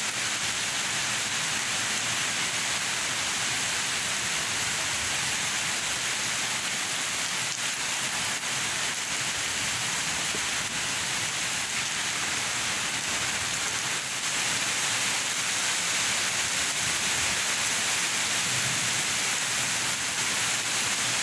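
Heavy rain pouring down in a steady, dense hiss, getting slightly louder about two-thirds of the way through.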